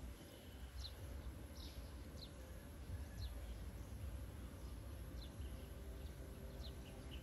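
Faint outdoor ambience with a steady low rumble, over which a small bird gives short, high, falling chirps at irregular intervals, about seven in all.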